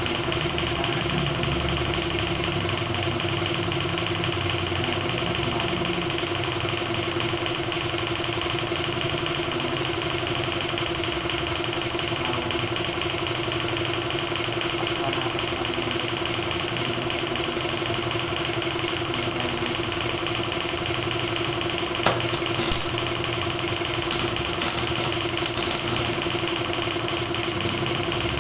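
A machine motor running steadily with an unchanging drone. A few short, sharp, hissing bursts come in over it near the end.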